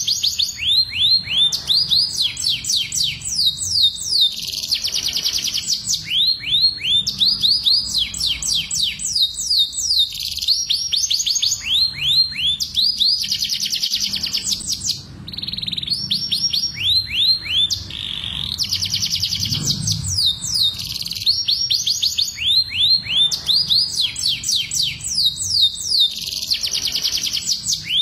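Domestic canaries singing: long, rapid trills of repeated falling notes, many to the second, with only brief pauses. This is breeding-season canary song of the kind used as a lure to bring canaries into mating condition.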